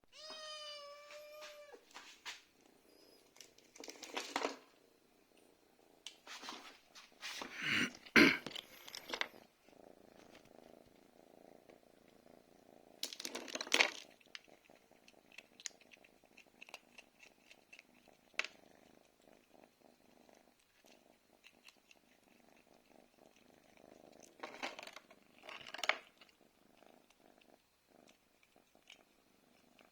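A house cat meows once, a single pitched call of about a second and a half. It is followed by scattered rustling and crackling noises, the loudest about eight seconds in, with further bursts around 14 and 26 seconds.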